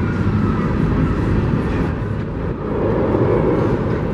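Freight train of open-top hopper cars rolling past: a loud, steady rumble of steel wheels on the rails.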